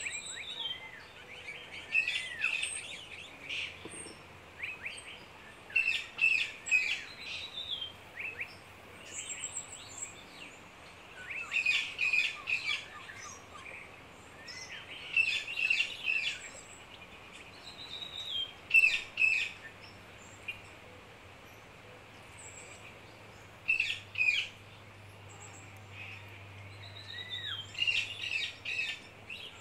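Songbirds singing: short phrases of high chirps and whistled notes coming every few seconds, over a faint steady background hiss.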